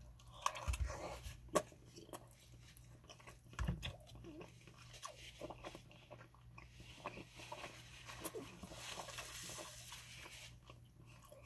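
Close-miked chewing of a mouthful of meatloaf and mashed potatoes in gravy, with many short mouth clicks. There are a couple of low knocks in the first few seconds.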